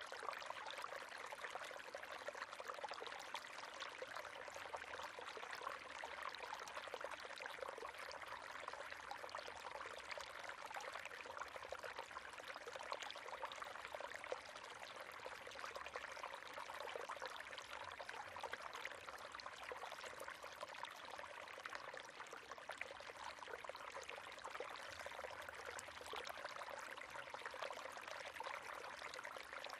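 River water running over stones, a steady splashing and gurgling flow.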